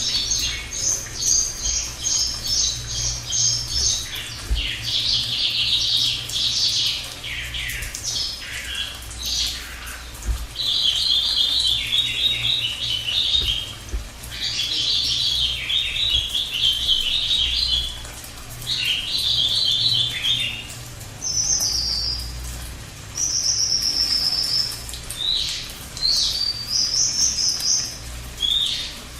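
Cililin (lesser racket-tailed drongo) singing its long rolling song: fast chattering trills in phrases of one to three seconds, separated by short pauses, with a few short high whistled notes near the end.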